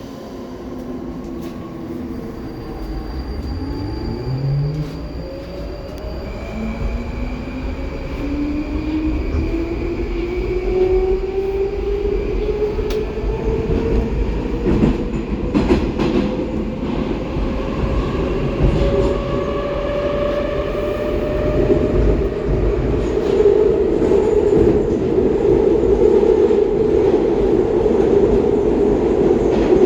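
Baltiets metro train pulling away: its electric traction motors give a whine of several tones that rises in pitch over the first ten seconds or so as it accelerates. After that comes steady running noise of wheels on rail, a rumble that grows louder as speed builds.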